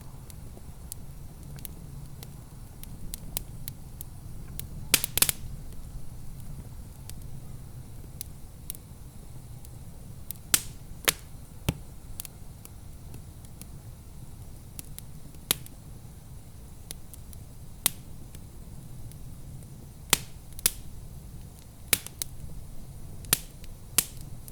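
Wood fire crackling in a fireplace, with irregular sharp pops: a quick cluster about five seconds in, then single loud snaps every second or two, over a steady low rumble.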